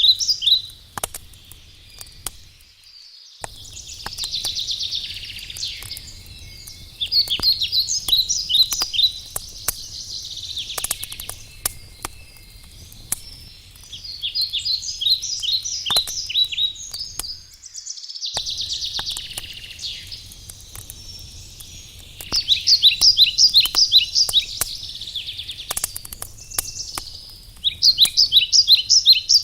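Songbirds singing repeated phrases of rapid high notes every few seconds, over the sharp crackling pops of a wood campfire and a low steady rumble.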